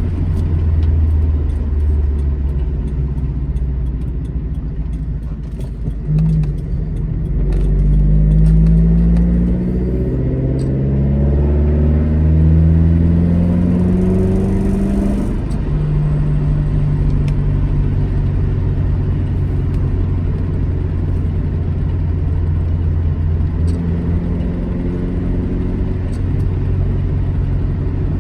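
Alfa Romeo GT Junior's twin-cam four-cylinder engine accelerating, rising in pitch through three pulls with a drop at each gear change, then running at a steady cruise from about halfway on.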